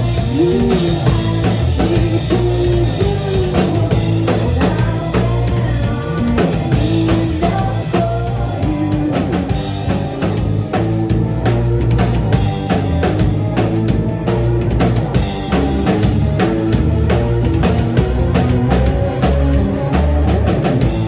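Live rock band playing an instrumental passage with no vocals: a drum kit keeps a steady beat under a guitar playing a melodic line.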